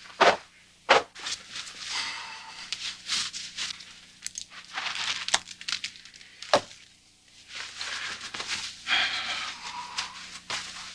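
Rustling and crinkling handling noise in a small room, with a few sharp clicks or knocks, one just after the start, one about a second in and one past the middle.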